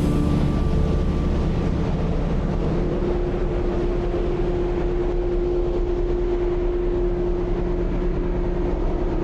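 Steady drone of a car ferry under way: a constant low engine hum under a rushing noise, with a steady tone joining about three seconds in.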